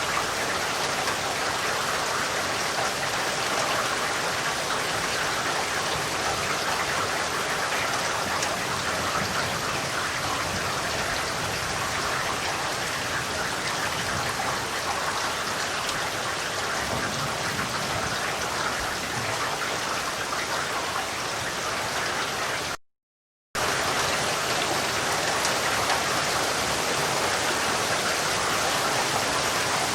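Steady rain falling, an even hiss of countless drops. The sound cuts out completely for under a second about three-quarters of the way through.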